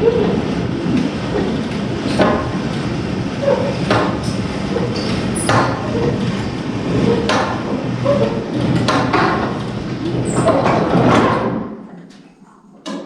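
Cable-driven dump-truck tarp being cranked out over the bed: a steady rolling, scraping rumble with a knock every second or so, which dies away about twelve seconds in.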